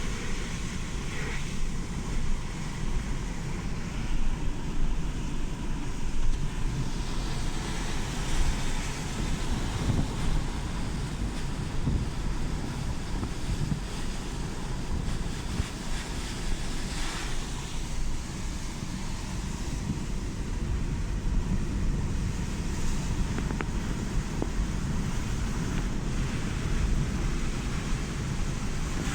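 Wind buffeting the microphone: a steady low rushing noise that rises and falls a little.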